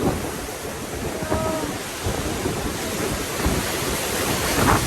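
Ocean surf washing in, with strong wind buffeting the microphone in irregular gusts.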